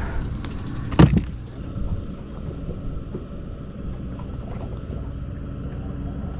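A single sharp knock about a second in, then a boat's motor running steadily with a low hum.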